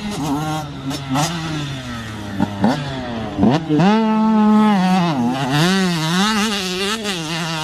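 Motocross bike engines revving on the track, the engine note rising and falling over and over as the bikes accelerate and back off.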